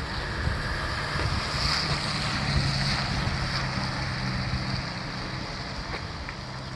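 Steady wind rushing over the microphone with a low, even engine hum underneath, typical of a moving vehicle.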